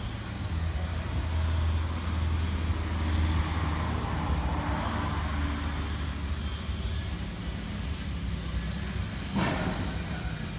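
A motor vehicle's engine running steadily at idle, a low even hum, with one short knock about nine seconds in.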